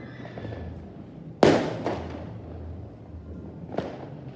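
Fireworks exploding: one loud bang about a second and a half in that rumbles away slowly, followed by a couple of fainter pops.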